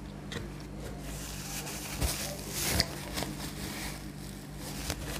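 Soft eating noises at a table: a few mouth clicks from chewing, and a paper napkin rustling against the face a couple of seconds in, over a steady low electrical hum.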